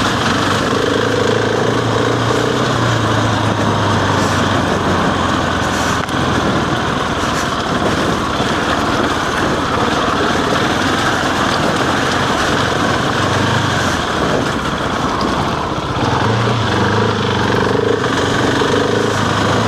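Husqvarna 701's single-cylinder engine running steadily under way, heard from the rider's helmet. Through the middle a rushing noise rises over the engine note.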